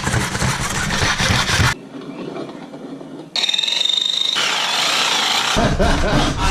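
Tools working aluminium tube: rapid rasping strokes of sawing or filing that stop suddenly. About three seconds in comes a brief high-pitched squeal of a power tool on metal, and the rasping strokes start again near the end.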